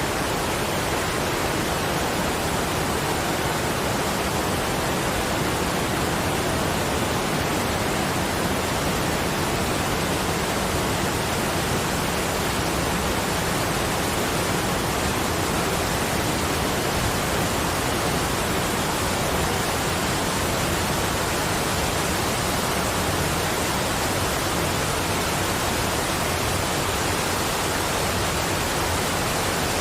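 Steady, even rushing noise spread across all pitches, unchanging throughout, of the kind played as a sleep and relaxation sound.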